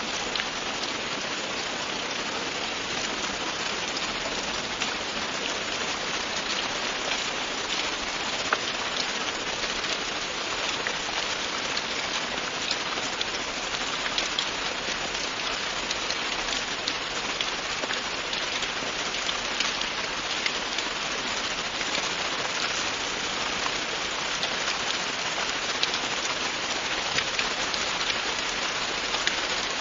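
Steady, continuous rain falling, with many individual drops ticking sharply on a hard surface.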